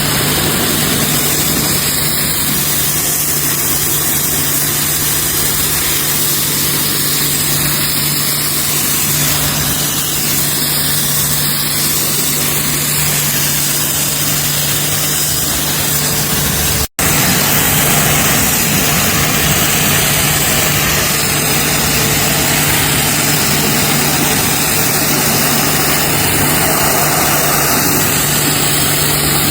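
Pressure washer running: a steady motor hum under a loud, even hiss of water spray, broken by a brief cut about 17 seconds in.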